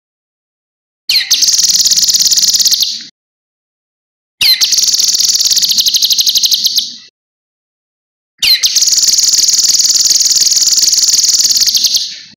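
Cucak kinoi songbird singing three long, fast, high-pitched trills of about two to four seconds each, every one opening with a quick rising note, separated by short silent gaps.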